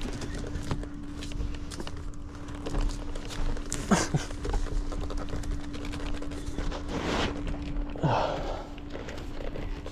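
A person breathing hard, with a few heavy breaths about 4, 7 and 8 seconds in. Under them runs a steady low hum, with scattered clicks and scuffs of work.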